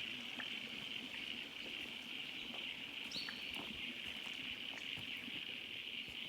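A steady, high-pitched insect chorus in the bush, with scattered faint ticks and a short bird call about three seconds in.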